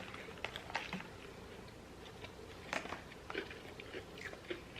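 People chewing food, with scattered small clicks and crunches of eating.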